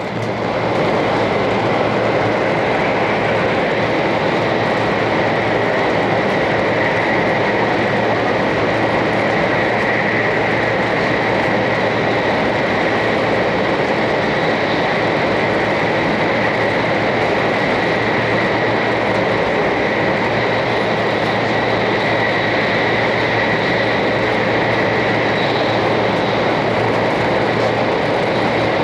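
Interior running noise of a 500 series Shinkansen at speed, heard inside a passenger car: a steady rushing roar with a faint, steady high whine. It steps up in loudness at the start and drops back near the end.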